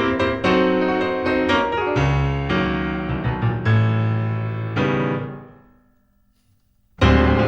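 Solo piano accompaniment playing a lively passage of struck notes, dying away about five seconds in to a second of near silence, then starting again suddenly near the end.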